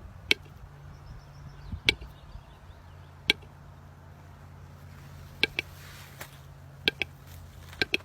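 Scattered sharp taps or knocks, about eight of them at uneven intervals, over a steady low hum.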